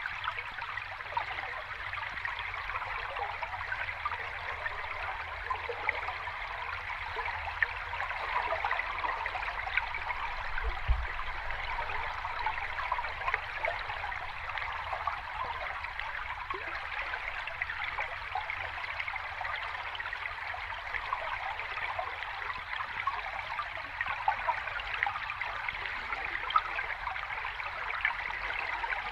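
Sea water washing steadily, a continuous fizzing rush and trickle with no distinct waves rising and breaking.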